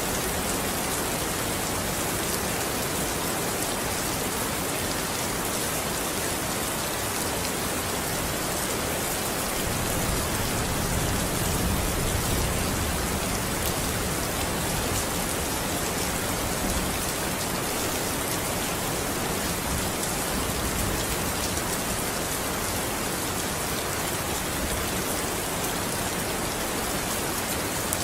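Steady rain falling on a surface, a dense even patter, with a slight low rumbling swell between about 10 and 16 seconds in.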